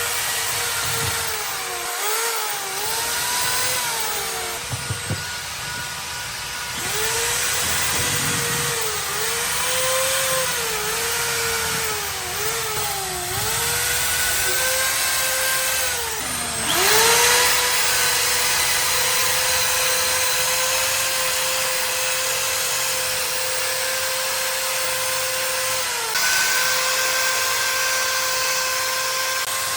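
Electric power tool motor whining under load, its pitch sagging and recovering again and again as the work bogs it down. About halfway through it dips sharply, then runs on steadily, rising a little in pitch near the end.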